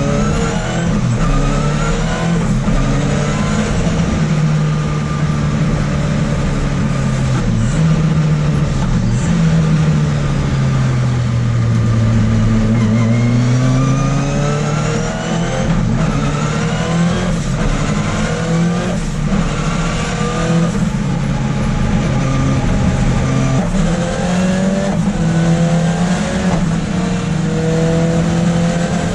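Onboard sound of a Ford Escort RS Cosworth race car's turbocharged engine driven hard on track. The engine note climbs repeatedly and falls back at each gear change, with a few brief sharp cracks among the shifts.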